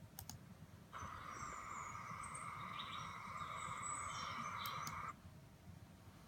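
Bird video's soundtrack playing from a screen: high bird chirps over a steady background noise, starting about a second in and cutting off suddenly about four seconds later as the paused video resumes and stops again.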